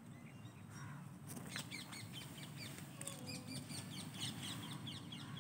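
Small birds chirping in quick, repeated short calls, starting about a second in and continuing over a low, steady background hum.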